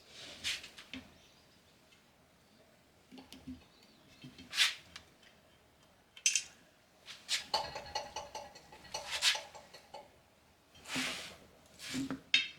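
Rubber snap-in valve stem (TR415) being pulled through a steel wheel's valve hole with a valve stem puller. There are scattered scrapes and clicks, and a squeaky stretch of rubber a little past the middle.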